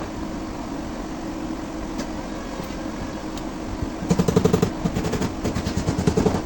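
A power tool hums steadily. About four seconds in, a loud, rapid rattle of closely spaced strikes starts and stops just before the end.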